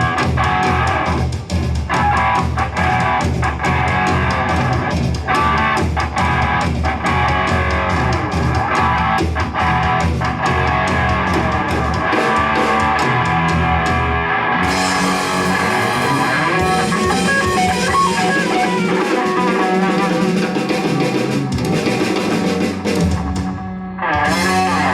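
Rock music with electric guitar over bass and drum kit, playing continuously.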